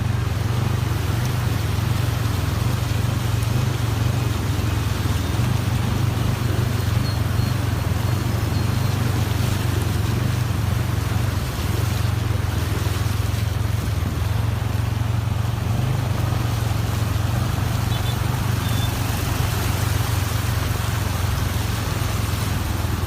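A vehicle engine running at a steady low drone, under a constant hiss of rain, wind and tyres on a wet road.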